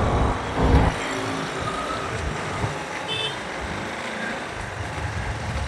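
City road traffic heard from a moving motorcycle: steady engine and road rumble with a short, loud low rumble under a second in, and a brief high horn beep a little after three seconds.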